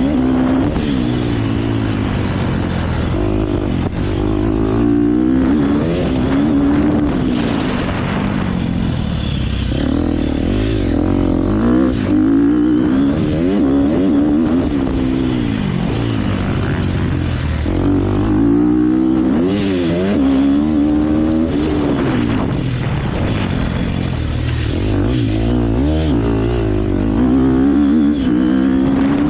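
KTM motocross bike engine under hard riding, loud throughout, revving up and falling back again and again every second or two as the throttle is worked.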